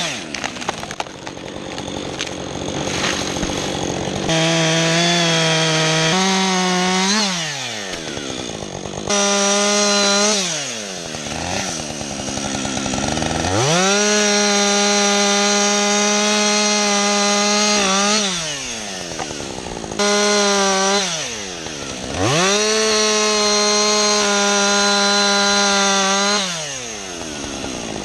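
Two-stroke chainsaw revving again and again from idle up to full throttle. It holds the high, steady pitch for several seconds each time, with the longest runs near the middle and near the end, then drops back to idle.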